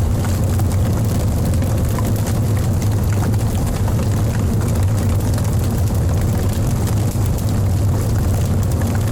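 Wood logs burning in a fireplace: a steady low rumble of the fire with many small crackles and snaps throughout.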